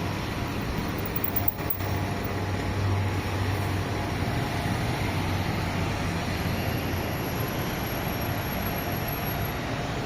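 Recife Metro train running through the station with a steady rumble; a low hum strengthens for a few seconds about two seconds in.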